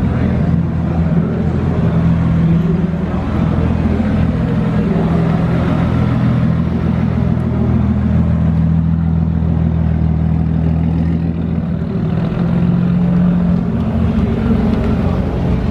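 Car engine running steadily at low speed, a deep, even exhaust note.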